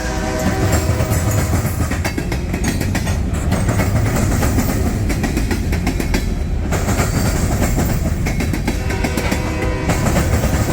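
Freight cars of a CSX local train rolling past: a steady rumble with the clicking of wheels over rail joints.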